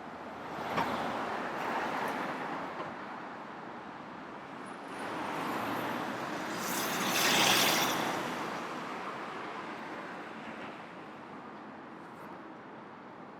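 Road traffic on a city street: a car goes past about a second in, then a louder vehicle swells up and fades away around the middle.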